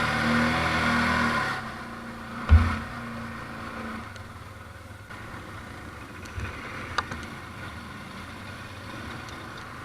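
ATV engine running under throttle, then dropping back to a quieter low idle about a second and a half in, with one sharp thump a second later and a few light knocks after.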